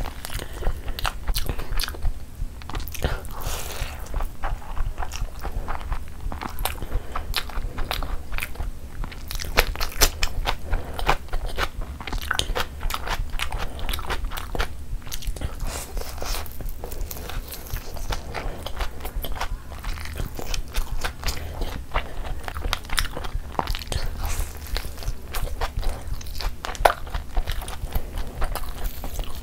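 Close-miked chewing of a mouthful of roast chicken and biryani rice: a dense run of small clicks, over a steady low hum.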